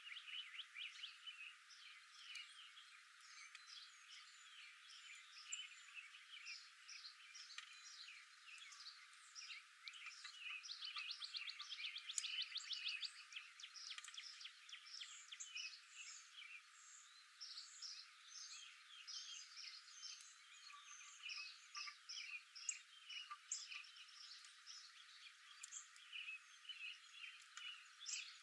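Faint outdoor chorus of small birds chirping, many short calls overlapping, with a fast trill about eleven seconds in.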